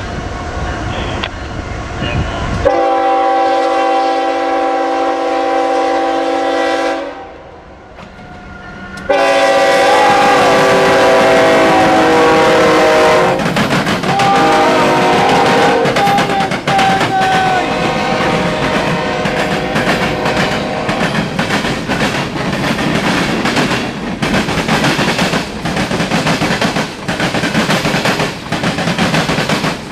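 Norfolk Southern freight locomotive's multi-chime air horn sounding long blasts, the first about three seconds in and a second after a short break, followed by the train rolling by with a heavy rumble and steady clicking of wheels over rail joints.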